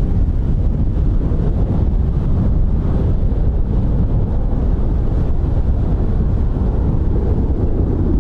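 Airbus A321 taking off: a steady low jet-engine rumble mixed with heavy wind buffeting on the microphone.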